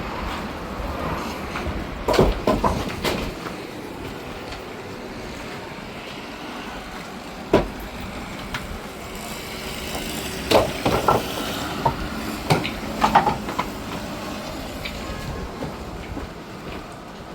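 Kia truck driving over a rough off-road track: a steady road and engine rumble with sharp knocks and rattles as it goes over bumps, in clusters a couple of seconds in and again around the middle and later.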